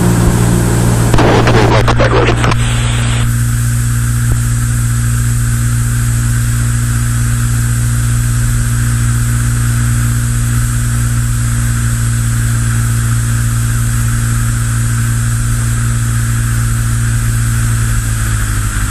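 Cessna 172's four-cylinder piston engine and propeller droning steadily in flight, with a brief rush of noise about a second in. The drone drops slightly in pitch near the end.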